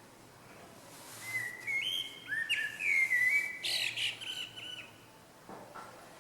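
A small songbird singing one short phrase of clear whistled notes, some sliding up or down in pitch, lasting about four seconds.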